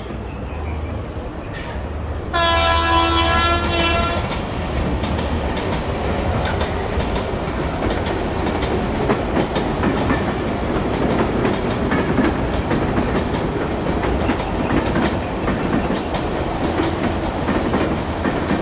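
HO-scale model train of an Indian Railways LHB rake running on layout track. A train horn sounds once for about a second and a half, about two seconds in, followed by a steady rumble and clatter of wheels over the rail joints.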